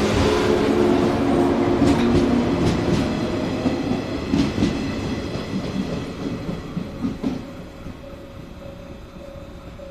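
A JR 113-series electric train pulling out, its traction motors humming and its wheels clacking over rail joints a handful of times. The sound fades steadily as the train moves away.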